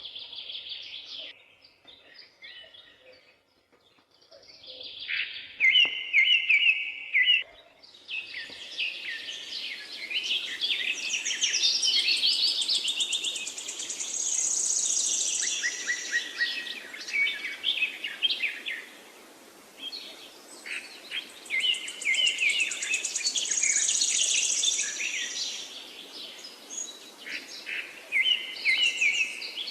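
Several songbirds chirping and singing, with quick repeated notes and rapid trills, busiest from about eight seconds in. A steady background hiss comes in underneath at about the same time.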